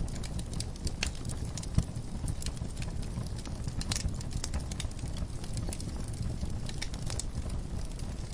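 Wood fire crackling in a fireplace: frequent sharp pops and snaps over a low, steady rumble, with one louder pop a little under two seconds in.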